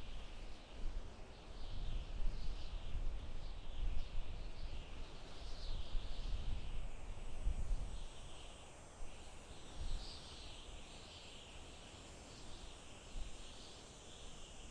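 Soft forest wind with a gusty low rumble that eases after about eight seconds. Steady, repeated high chirping from small animals runs underneath.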